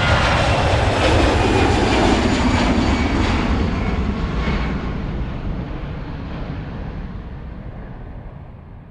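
Aircraft engine noise passing and dying away: a loud, even rush that fades over several seconds and grows duller as it goes.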